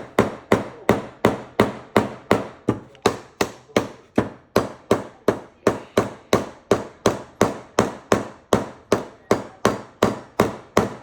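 Hammer repeatedly striking a nail into a board of reclaimed lumber, in a steady rhythm of about three blows a second. The nail is stuck partway, and just afterwards the hammerer says it won't go through one part of the wood.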